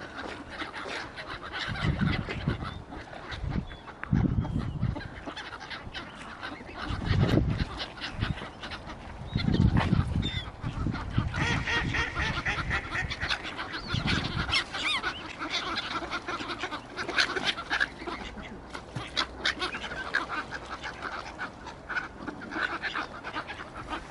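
Waterfowl calling, a mix of goose-like honks and duck quacks, busiest in the middle and latter part, with a few low rumbles.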